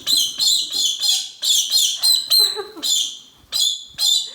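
Pet parrot giving a rapid series of loud, shrill calls, about three or four a second, each one sweeping downward in pitch.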